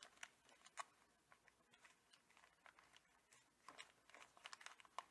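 Faint crinkling and soft ticking of a folded paper canoe being handled and pressed into shape, the small crackles coming more often near the end.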